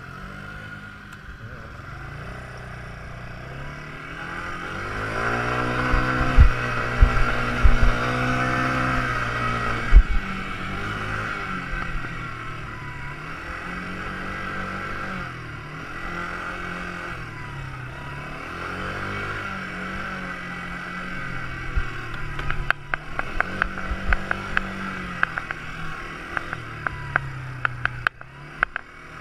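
Quad bike engine revving up and falling back again several times as it is ridden, loudest about a fifth of the way in. Quick sharp clicks and knocks come in the last quarter.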